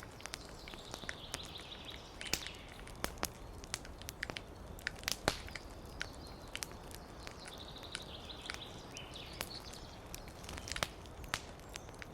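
Wood fire crackling and popping with irregular sharp snaps over a soft steady hiss, while a small songbird twitters in short bursts of high chirps, about a second in, again from about eight to ten seconds, and near the end.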